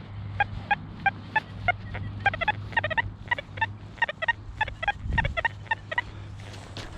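XP Deus 2 metal detector in PWM full-tones mode chattering: rapid, irregular short beeps of slightly varying pitch, about four a second, over a steady low hum. This is soil chatter, false signals from harsh, mineralised red clay.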